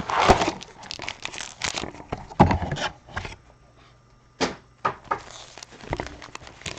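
A cardboard trading-card blaster box being handled and opened: scattered taps, scrapes and tearing of packaging, with a lull midway.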